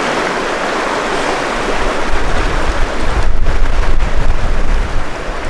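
River water rushing in a steady, loud hiss, with wind buffeting the microphone in gusts from about two seconds in.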